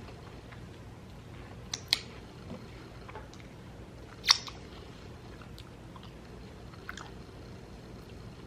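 Close-up chewing of bacon-wrapped, cream-cheese-stuffed jalapeno poppers, with a few sharp crunchy clicks: two together about two seconds in and the loudest a little after four seconds.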